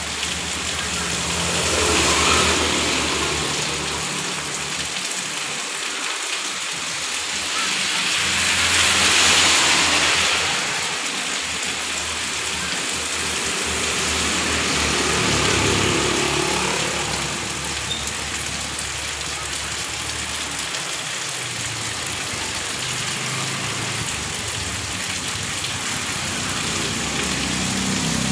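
Heavy rain falling steadily on a paved street, with a low engine hum underneath. Passing vehicles swish their tyres on the wet road about 2, 9 and 16 seconds in, and a motorbike comes close near the end.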